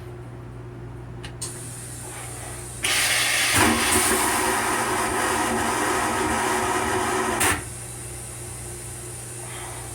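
Comet II rail car restroom toilet flushing: a loud hissing rush of water starts about three seconds in, lasts about four and a half seconds and stops with a click. A steady low hum from the rail car runs underneath.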